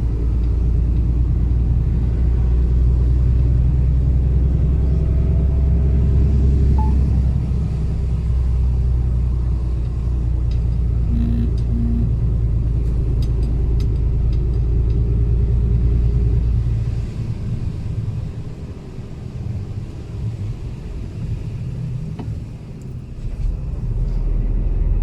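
Mercedes-Benz Actros truck engine running with a steady low drone while climbing a mountain road. About two-thirds of the way through, the drone drops away and the sound becomes quieter and uneven, then builds again near the end. Two short beeps come about halfway through.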